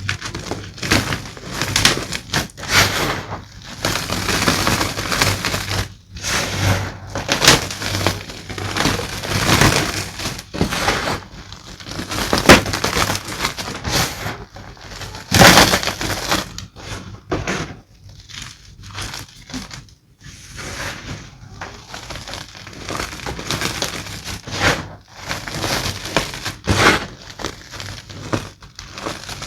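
Gym chalk being crushed and crumbled: an irregular run of dry crunches, with two sharper, louder cracks about halfway through.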